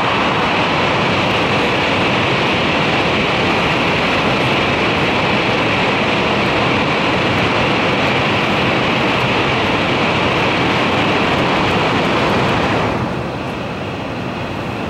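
Cabin noise inside an N700 series Shinkansen running at speed through a tunnel: a loud, steady rush that drops noticeably about thirteen seconds in as the train comes out of the tunnel.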